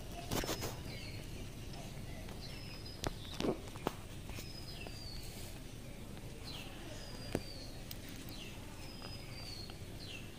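A bird calling over and over: a short high note sliding down in pitch, repeated every second or two. A few sharp clicks or knocks fall in between, the loudest about half a second and three and a half seconds in.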